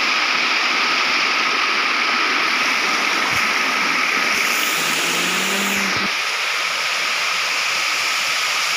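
Steady, loud rush of falling water from a waterfall, unbroken throughout. A short voice is heard briefly about five seconds in.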